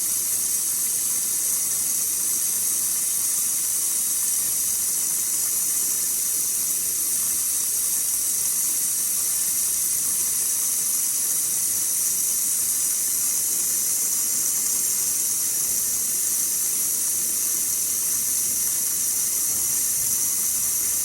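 Air-powered vacuum brake bleeder hissing steadily as it draws brake fluid and air out through the caliper's bleed nipple.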